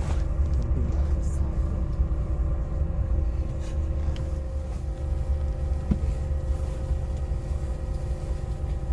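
Steady low rumble of a motor vehicle running, with a constant engine hum over it.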